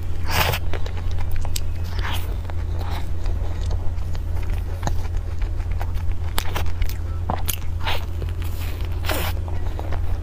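Biting and chewing soft cream puffs with whipped cream: irregular wet mouth noises and short smacks, over a steady low hum.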